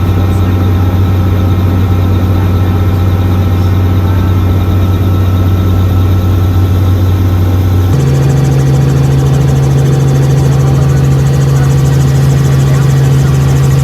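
Helicopter engine and rotor drone heard from inside the cabin, steady and loud. About eight seconds in the low hum jumps suddenly to a higher pitch.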